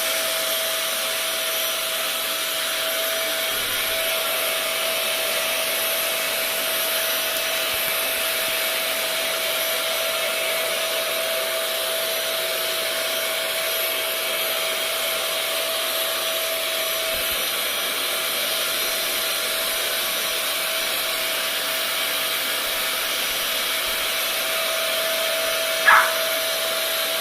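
Vacuum cleaner running steadily, its motor giving a constant whine over the rush of air. Near the end comes a single short, loud bark.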